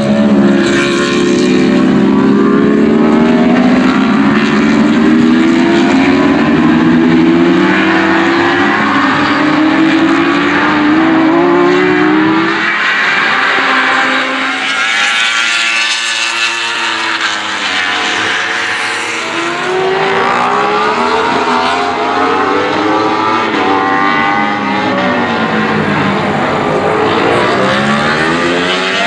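Racing superbike engines at full throttle. For the first dozen seconds one bike climbs in pitch and drops back at each upshift, then more bikes go past, their pitch rising and falling as they pass.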